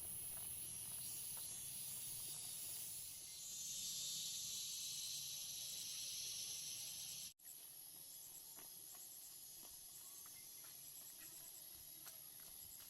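Insects droning and chirping outdoors, with a steady high whine and a hiss that swells in the middle. The sound cuts off abruptly partway through, then continues with faint rapid chirps and scattered small clicks.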